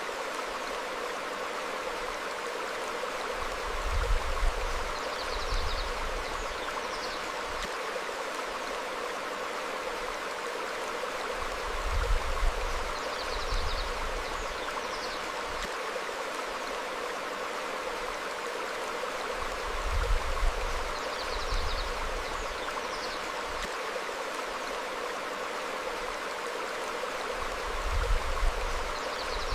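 Stream flowing steadily over rocks, with a low rumbling swell about every eight seconds. Faint short bird chirps come through now and then.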